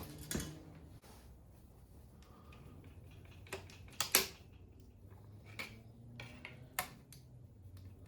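A few scattered sharp clicks and light knocks of hand tools and engine parts being handled while taking apart an engine's fuel rail and intake, the loudest about four seconds in, over a faint steady hum.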